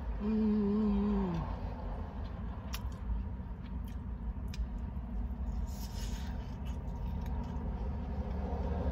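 A person hums a short 'mmm' about a second long near the start, falling in pitch at the end, then chews fried chicken with scattered mouth clicks and smacks over a low steady rumble.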